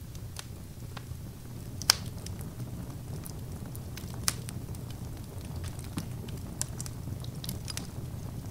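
Fire burning in a fireplace, crackling with scattered sharp pops over a steady low rumble; the loudest pop comes about two seconds in.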